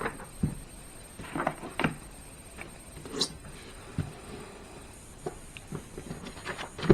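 Irregular light knocks, clicks and rustles of the hard plastic carry case and its contents being handled, with a slightly sharper knock near the end.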